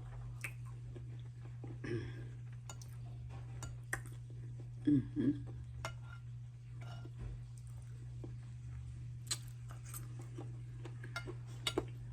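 Close-miked eating and food-handling sounds: scattered small clicks and taps, with a brief louder sound about five seconds in, over a steady low hum.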